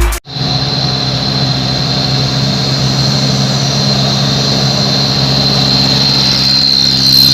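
Truck diesel engine running steadily through a Sulawesi-style 'chung takalar' modified exhaust, with a steady high whine over it. Electronic music cuts off right at the start.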